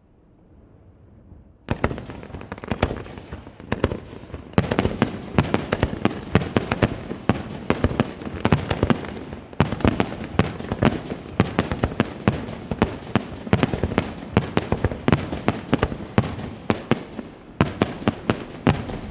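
Fireworks display going into a rapid barrage: after a faint low rumble, sharp bursts of aerial shells start about two seconds in and come several a second, growing denser, with a short break near the end before more bangs.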